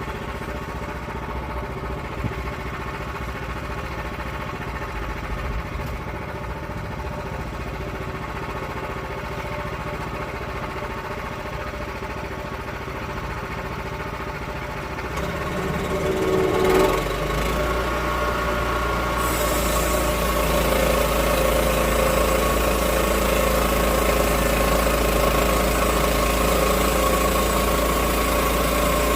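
Portable sawmill engine running at a steady low speed, then revving up about 16 seconds in and running louder. A steady high hiss joins from about 19 seconds in.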